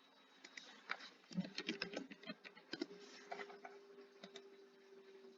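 Faint, quick clicks and taps of a computer keyboard and mouse, bunched in a run of rapid taps in the first three seconds with a few stray clicks later, over a faint steady hum.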